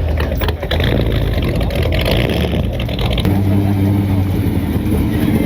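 Car engine running loudly, rough and uneven at first, then settling into a steady low hum about three seconds in.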